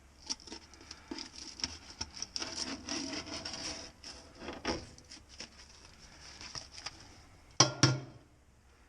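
Irregular rubbing and scraping strokes on a metal part being cleaned for a gasket, then two sharp knocks near the end.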